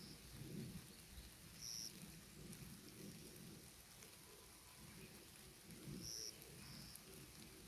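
A few faint, short, high whistled bird notes, one at the very start, one about two seconds in and two close together around six to seven seconds in, over a low, uneven rumble.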